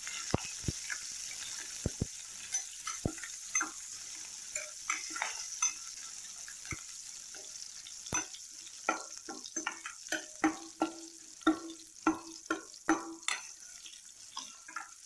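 Green chillies, mustard seeds, urad dal and cumin sizzling in hot oil in a stainless steel kadai, stirred with a steel spoon that clicks and scrapes against the pan. The clicks and scrapes come more often in the second half.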